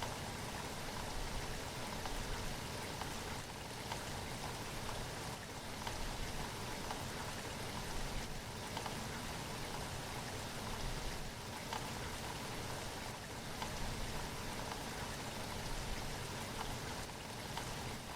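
Steady rain falling as an even hiss, with scattered single drops ticking through it.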